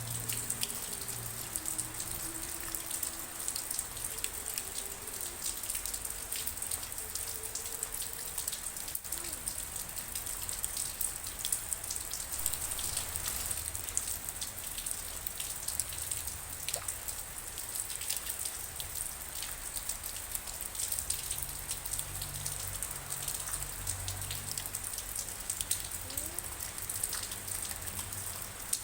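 Steady rain, with many individual drops tapping sharply on a surface over an even hiss. Faint low steady tones hum underneath, most noticeable at the start and again in the last third.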